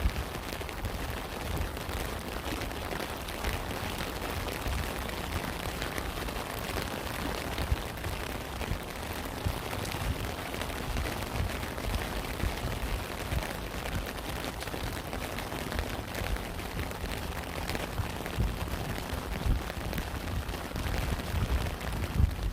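Steady rain, with dense ticks of individual drops over a continuous hiss and an unsteady low rumble underneath.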